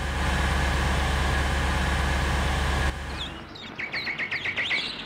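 Car engine running steadily, a stock animation sound effect, cutting off about three seconds in. Birds follow, chirping in a quick run of short calls.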